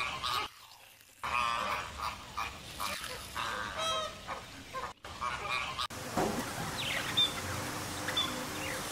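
A flock of flamingos honking, repeated goose-like calls one after another with a short pause about half a second in. About six seconds in the sound cuts to budgerigars chirping softly in short high notes.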